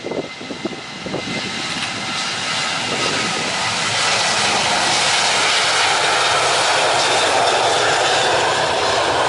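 Boeing 737-900ER jet engines at takeoff thrust, growing louder over the first four seconds and then holding steady and loud as the airliner goes by on its takeoff run.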